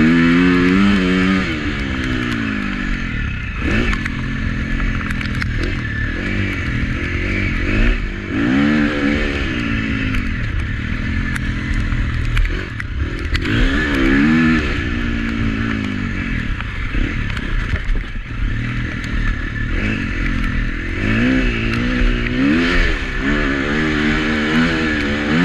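Husqvarna FC350 four-stroke single-cylinder motocross engine revving up and dropping back again and again as the throttle is opened and shut.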